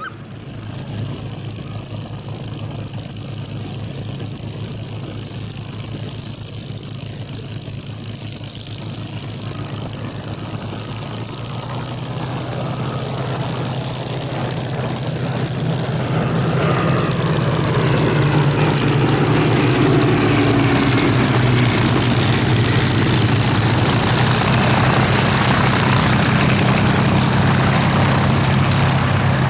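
Piston-engined propeller warbird engine running, growing steadily louder over the first half and then holding loud and steady.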